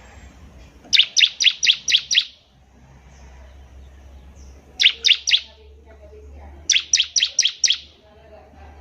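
Bar-winged prinia (ciblek) calling in three quick bursts of sharp, high chirps: about six notes, then three, then about six more.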